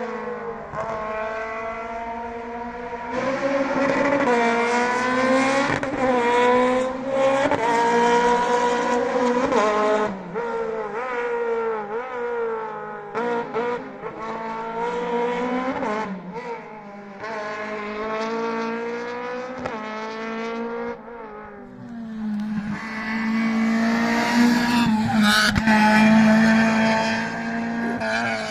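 Historic rally car engine at racing revs, its pitch climbing and falling again and again as the driver shifts gears and lifts for corners. Near the end a louder, steadier engine note comes in as a car passes close.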